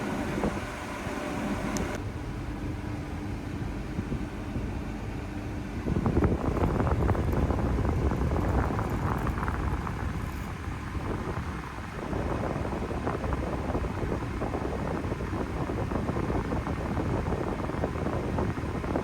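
Small vehicle engine running steadily, with wind noise on the microphone; it turns louder and rougher about six seconds in.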